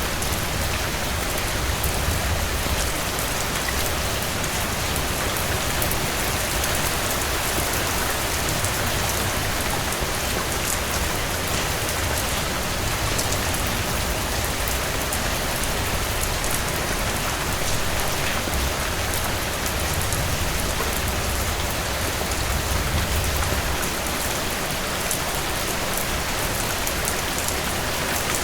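Heavy rain falling steadily and hitting the cabin porch, with a low rumble underneath and faint scattered crackles from a wood fire.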